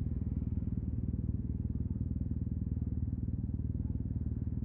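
Yamaha TMAX 560 parallel-twin scooter engine through an Akrapovic carbon full-system exhaust, running steadily at a low, even idle with no revving.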